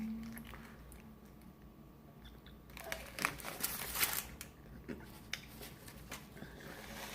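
Faint eating sounds: scattered crunches and crinkles, bunched together a few seconds in.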